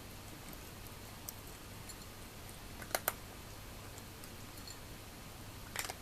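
Cats eating dry food: faint scattered crunches and ticks, with two sharp clicks close together about halfway through and a short cluster of clicks near the end.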